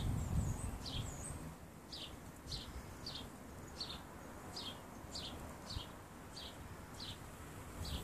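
A bird calling over and over, a short falling note repeated about every half second to second, with a low rumble in the first second or so.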